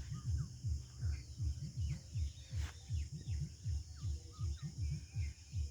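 Scattered faint bird chirps over a rapid low pulsing, about four pulses a second.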